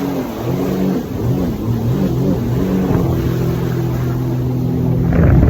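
Personal watercraft (jet ski) engine running under way, its pitch rising and falling with the throttle for the first few seconds, then holding steady. A louder rush of noise comes near the end.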